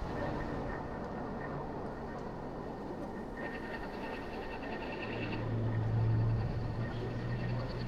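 City driving sound: steady road and engine noise. A rapid run of high-pitched beeps lasts about two seconds near the middle, and a low drone grows louder in the second half.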